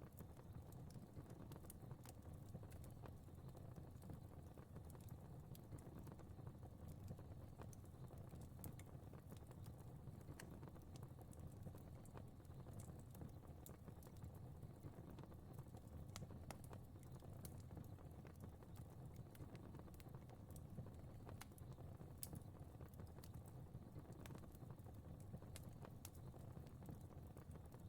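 Fire crackling faintly: irregular small pops and ticks over a low, steady rumble.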